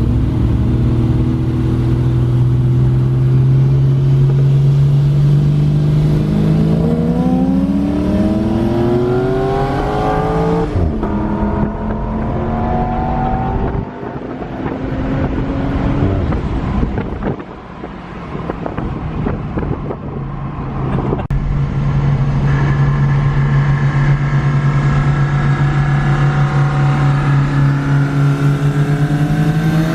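Car engine held at steady revs, then revving up for several seconds and dropping sharply about ten seconds in, as at a gear change. It pulls up again briefly, runs unevenly for a few seconds, settles back to steady revs, and starts to rise again at the end.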